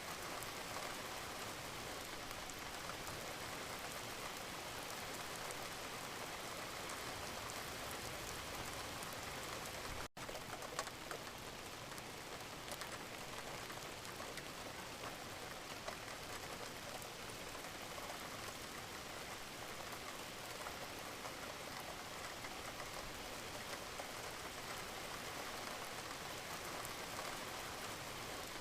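Steady rain falling, an even hiss with scattered drops ticking through it. The sound cuts out for an instant about ten seconds in.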